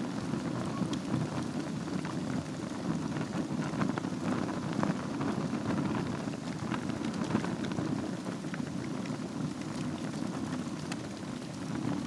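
Wood fire burning in a fireplace: a steady low rush of flame with scattered small crackles and pops.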